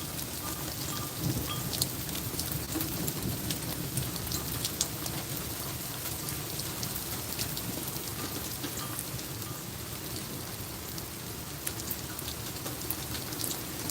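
Steady rain falling and pattering on surfaces, with scattered sharp ticks of drops striking throughout.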